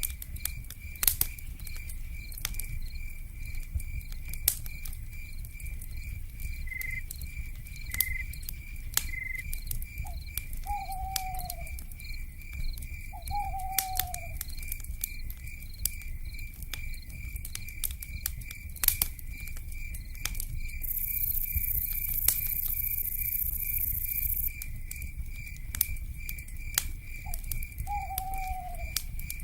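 Wood fire crackling with frequent sharp pops, over a low rumble, with a steady fast-pulsing insect chirp throughout. Short falling owl calls come three times, and a high hiss like a cicada buzz rises for a few seconds past the middle.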